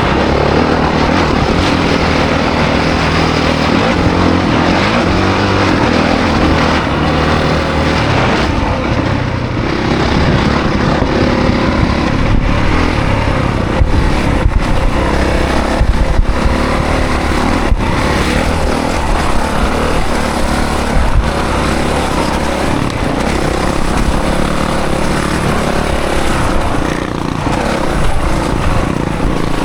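Honda CRF450 dirt bike's single-cylinder four-stroke engine running hard while being ridden, its pitch rising and falling with throttle and gear changes, over a steady rush of noise.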